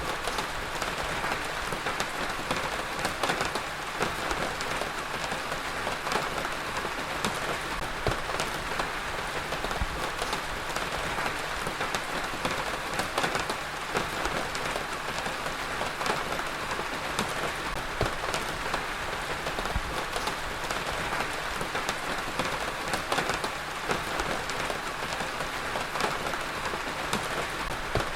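Heavy rain falling steadily on a surface, an even hiss with many distinct drop hits scattered through it.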